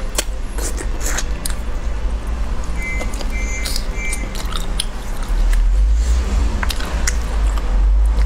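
Close-miked chewing and biting on roast pig trotter, with wet mouth clicks and smacks, over a steady low rumble that gets louder about five seconds in. Three short high beeps sound near the middle.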